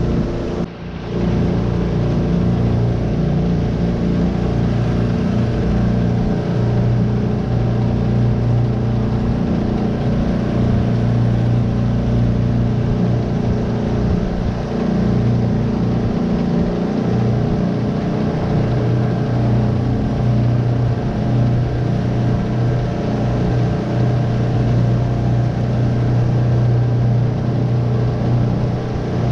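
Tohatsu 9.8 hp four-stroke twin-cylinder outboard running steadily at cruising speed, pushing a small V-bottom boat, with a brief dip in level about a second in.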